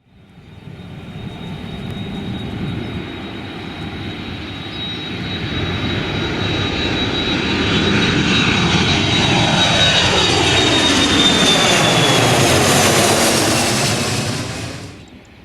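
Jet airliner passing close by, its engine noise building up and a high whine slowly falling in pitch as it goes past. The sound cuts off suddenly near the end.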